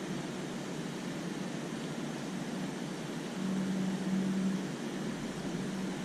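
Steady outdoor background rush with a low, even hum that comes in about halfway through, breaks off briefly and returns.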